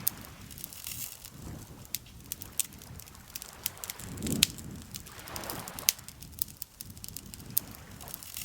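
Campfire crackling, with frequent sharp pops and snaps from the burning wood. A soft swell of rushing noise rises about four seconds in and fades away again.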